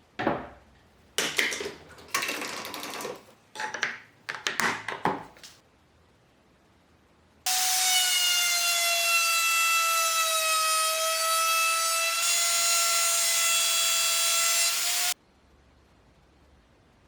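A series of irregular scraping strokes on wood, then a power tool's motor running with a steady high-pitched whine for about eight seconds, sagging slightly in pitch midway and cutting in and out abruptly.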